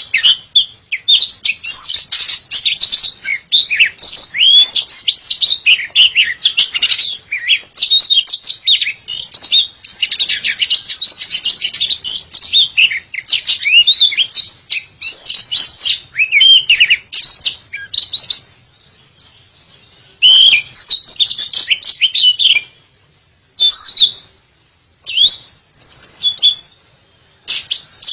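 Oriental magpie-robin (kacer) singing: a fast, varied string of high whistles and chirps. It breaks off briefly about two-thirds through, then returns in shorter phrases with pauses.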